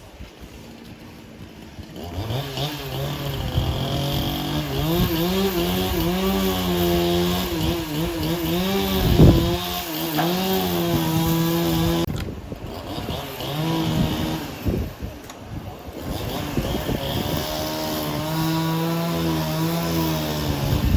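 Small engine running hard, its pitch wavering up and down as the load changes. It fades out briefly about halfway through and again a few seconds later, then picks back up.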